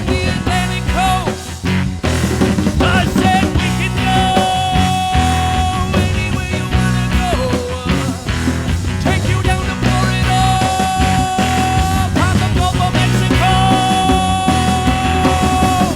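Live band playing an instrumental passage of a song, a lead instrument holding long notes with bends and slides over a steady bass and rhythm accompaniment.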